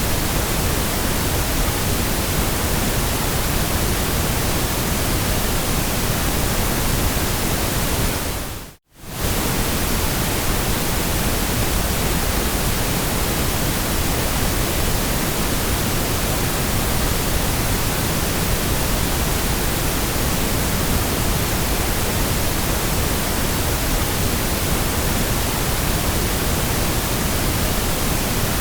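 Steady white noise, an even hiss across all pitches, that dips out to near silence for a moment about nine seconds in and comes straight back.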